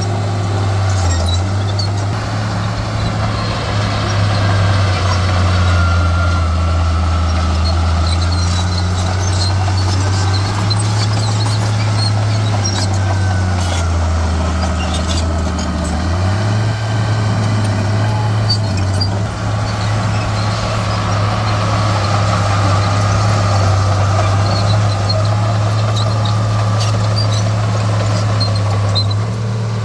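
Heavy diesel earthmoving machinery running, its engine note dropping and rising again several times as the load changes, with a faint wavering squeal and small clicks above it.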